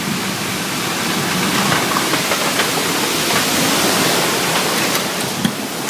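Heavy rain and strong wind of a severe thunderstorm, a loud, steady rushing without a break.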